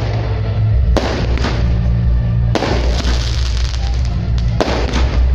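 Fireworks shells bursting over loud music with a heavy bass. There are about four sharp bangs, roughly one, one and a half, two and a half and nearly five seconds in.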